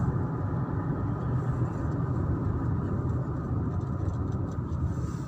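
Steady engine and tyre noise from a car driving on a paved road, heard from inside the cabin.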